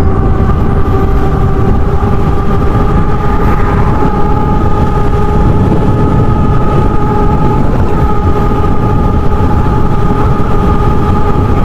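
HappyRun G300 Pro electric dirt bike cruising at a steady speed: wind rushes over the microphone, over a steady whine of several tones that holds the same pitch.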